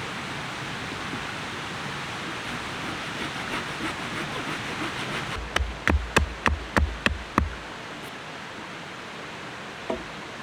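A steady rushing noise, then, a little past halfway, a quick run of about eight sharp knocks over two seconds, and one more faint knock near the end.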